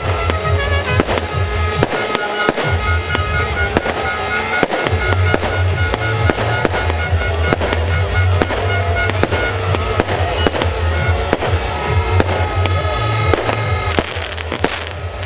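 Rapid, irregular sharp bangs and crackles, many per second, over music with steady held tones.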